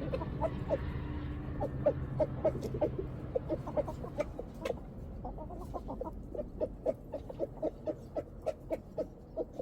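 Domestic hens clucking steadily: a run of short, soft clucks, several a second. A low hum underneath fades out about three seconds in.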